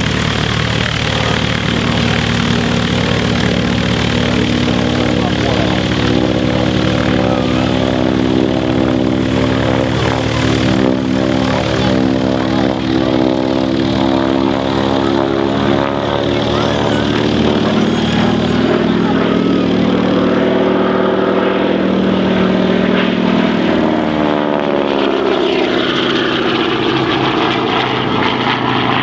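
Radio-controlled model aeroplane's engine and propeller buzzing in flight, the pitch slowly falling as it passes and moves away, then rising again as it comes back near the end.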